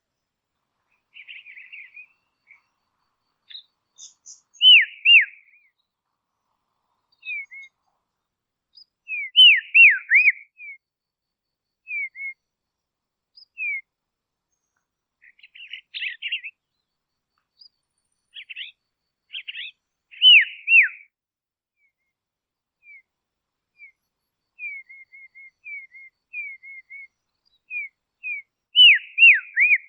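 Dusky robin calling: clear whistled notes that slide down in pitch, given in twos and threes every several seconds, with short chirps and a few buzzy, scratchy notes between them.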